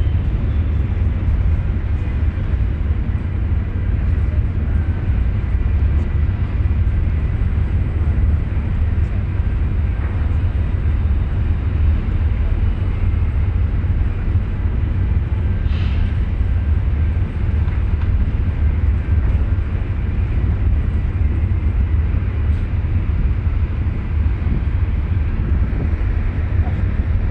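Steady low rumble with an even noise over it, the sound of a ferry under way at sea.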